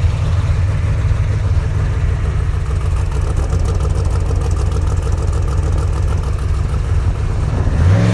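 Off-road race truck's engine running steadily with a low, even rumble.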